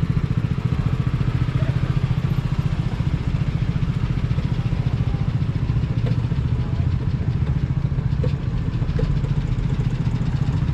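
A small engine running steadily nearby, with a fast, even, low pulsing beat.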